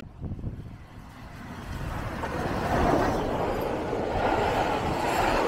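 Steam-hauled passenger train going past at close range: a low rumbling noise that builds over the first three seconds as it approaches, then holds steady as the coaches roll by on the track.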